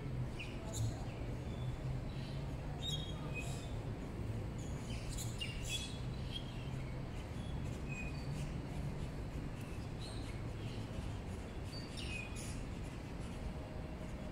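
Birds chirping now and then over a steady low hum of outdoor background noise.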